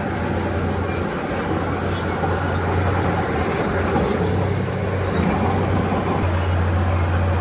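Komatsu D31P bulldozer's diesel engine running steadily under load, with a constant low hum and a rough mechanical rumble, and faint high chirps scattered over the top.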